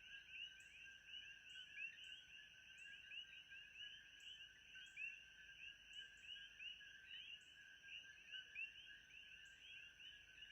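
Faint chorus of many frogs calling at once: short rising chirps overlapping continuously over a steady high drone.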